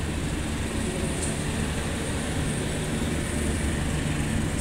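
KA Cikuray passenger train in motion: a steady low rumble with a hiss over it, unchanging throughout.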